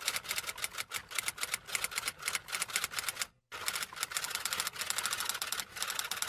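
Rapid typing keystrokes, a quick run of sharp clicks about six to eight a second, broken by a brief silence about three and a half seconds in.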